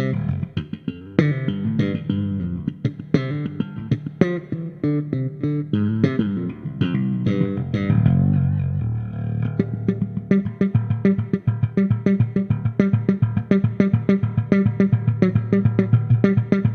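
Fender American Original '60s Jazz Bass played solo through an amp at flat settings, with added reverb: plucked bass lines that change about halfway through into a fast, even run of short repeated notes.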